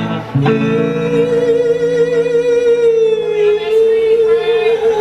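Live band music: one long held melody note with a wavering vibrato, sustained over a held chord that fades out about midway, the note dipping slightly in pitch near the end.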